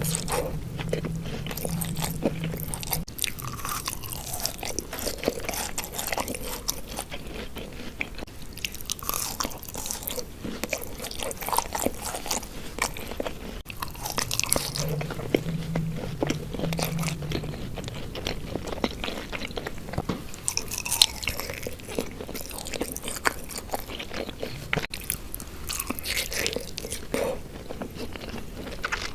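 Close-miked eating of Indian syrup-soaked sweets: repeated crisp biting and crunching with chewing in between, in an irregular run of mouth sounds.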